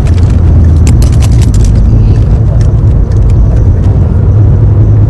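Audi A4 engine running loud inside the cabin while the car is driven at speed, with road and wind noise over it. The engine note steps down in pitch at the very beginning and climbs back near the end, and a short cluster of sharp clicks comes about a second in.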